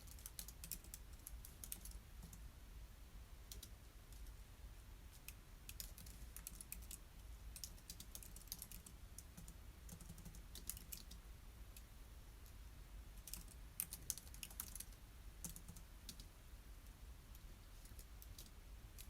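Computer keyboard being typed on, faint keystroke clicks in quick irregular runs broken by short pauses, over a low steady hum.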